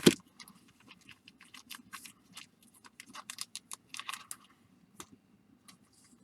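Baseball card packs in their wrappers being handled and set down in piles on a table: a run of quick rustles and light taps, with a sharper knock right at the start.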